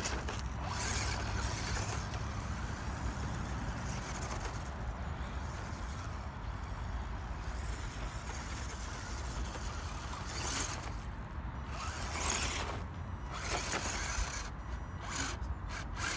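Small electric radio-controlled off-road truck driving over rough, uneven ground: motor and drivetrain whirring, with louder surges about ten and twelve seconds in.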